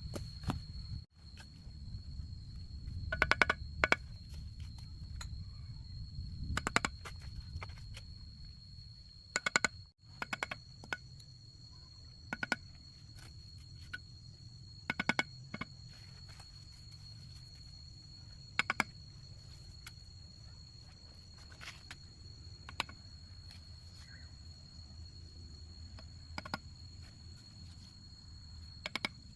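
Steady high-pitched trill of insects, with sharp knocks or taps every few seconds over a low rumble.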